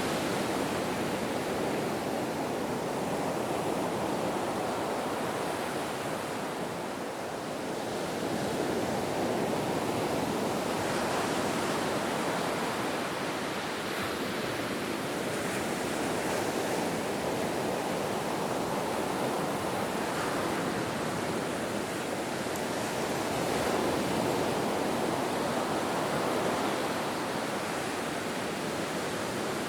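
Ocean surf: a continuous wash of breaking waves that swells and eases slowly every several seconds.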